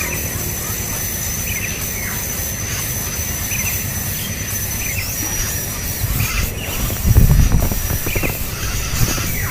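Small birds giving short chirps every second or so, over a thin, steady, high-pitched whine and a low rumble that grows louder about seven seconds in.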